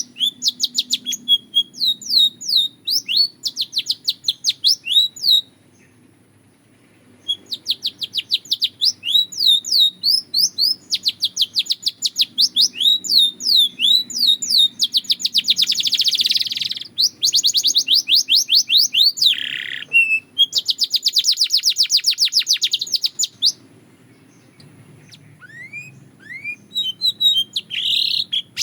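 Canary singing in fast trills of rapidly repeated sweeping notes. The song pauses for a second or two about five seconds in, and again for a few seconds near the end.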